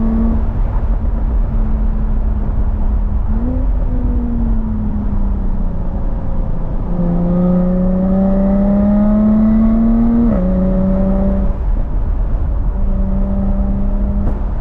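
Jaguar F-Type S's supercharged 3.0-litre V6 running while driving. The engine note rises and falls briefly about three and a half seconds in, then climbs slowly under acceleration and drops sharply at a gear change about ten seconds in. A steady low rumble lies under it throughout.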